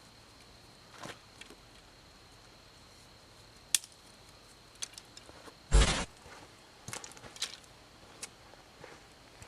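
Scattered crunches and clicks of someone moving about in dry leaves and sticks, with one loud thump about six seconds in.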